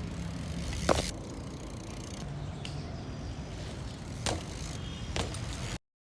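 Steady low outdoor rumble with three sharp knocks: about a second in, just after four seconds and just after five. The sound cuts off abruptly near the end.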